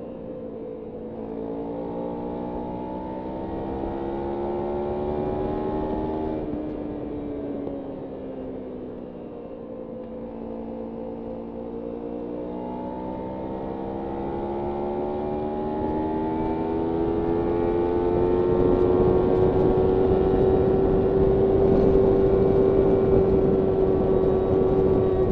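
Kawasaki Ninja 300's parallel-twin engine under way. Its note climbs for several seconds, cuts off suddenly about six seconds in and winds down, then climbs steadily through a long pull to its loudest near the end before easing slightly.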